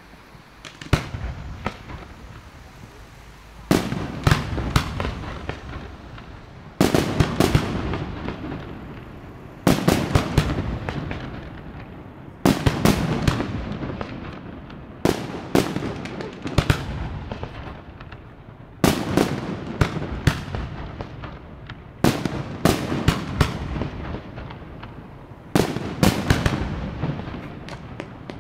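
Fireworks display: aerial shells bursting in salvos about every three seconds. Each salvo is a cluster of sharp bangs followed by a rumble that fades before the next.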